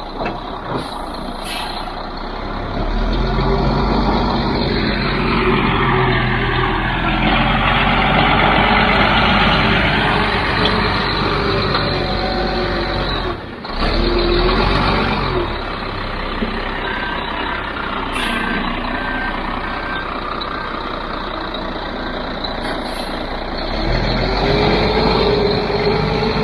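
Ready-mix concrete truck's diesel engine running and revving as the truck manoeuvres. A reversing alarm beeps steadily for several seconds past the middle, with short hisses of air brakes.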